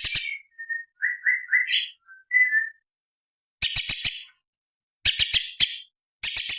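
Cucak cungkok (leafbird) song: short bursts of rapid, harsh ticking notes alternating with a few clear whistled notes that end in quick upward slurs.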